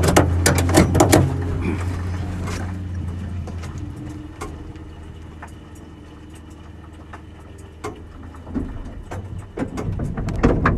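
A car engine's low, steady drone fades away over several seconds. Sharp clicks and knocks come in the first couple of seconds, and another cluster of knocks arrives near the end.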